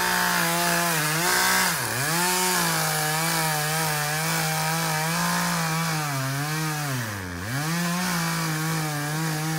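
Chainsaw running at high revs through the wood of a fallen tree, its pitch wavering under the load of the cut. The engine note dips sharply and recovers twice, about two seconds in and near the end, as the throttle is briefly eased.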